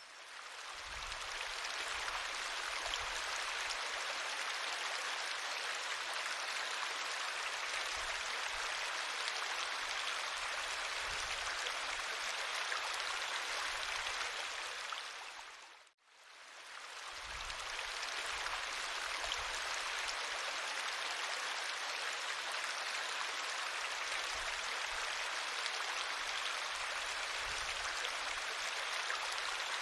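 River water flowing: a steady rushing hiss. It fades out to silence about halfway through, then fades back in.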